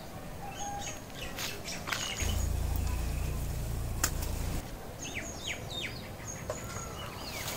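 Birds chirping and calling, with a run of short falling chirps about five to six seconds in. A low rumble sits under them for about two seconds near the middle, with a sharp click about four seconds in.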